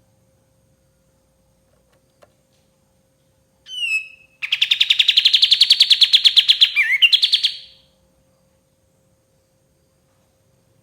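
Kapas tembak songbird singing: a short call with falling notes, then a fast, even trill of rapid repeated notes lasting about three seconds before it stops.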